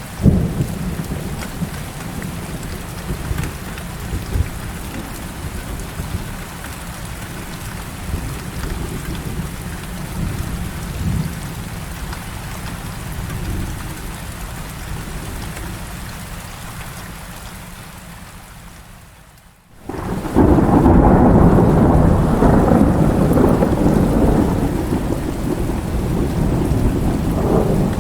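Heavy rain pouring steadily with rolling thunder. A rumble swells right at the start and runs on low. About two-thirds of the way through, the sound briefly dips and a loud peal of thunder breaks in and keeps rumbling to the end.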